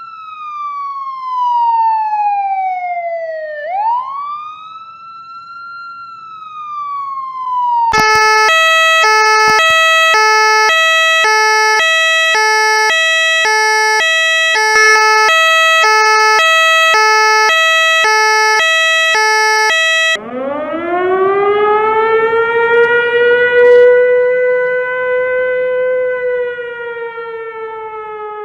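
Three emergency-vehicle sirens one after another. First an electronic wail sweeps slowly down and back up. About a third of the way in it switches to a two-tone hi-lo siren in the French style, alternating steadily between two notes a fifth apart. Later a mechanical wind-up siren of the kind on US fire trucks climbs from a low growl to a high howl and slowly sags.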